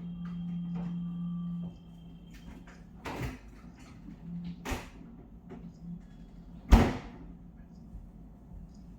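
A low steady hum for about the first second and a half, then three separate knocks or bangs spread over the next few seconds, the last and loudest near the end.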